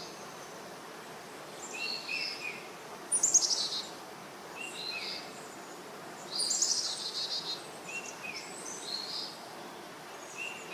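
Birdsong: short chirps repeating every couple of seconds, with a louder rapid trill about three seconds in and again past six seconds, over a faint steady hiss.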